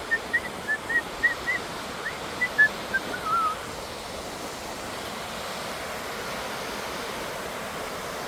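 Steady rushing of a waterfall running strongly with snowmelt. Over it, in the first few seconds, comes a quick run of about a dozen short high chirping notes that drops in pitch at the end.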